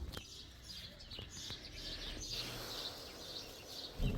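Small birds chirping over and over, many short high chirps. A brief low thump near the end.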